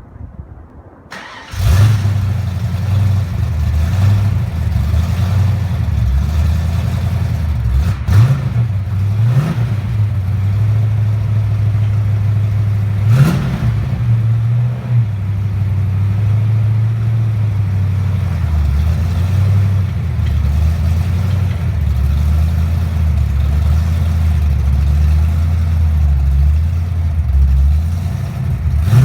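Fox-body Mustang's 306 small-block Ford V8 with its exhaust dumps open, starting up loud about a second and a half in, then idling unevenly. Three quick blips of the throttle come in the first half.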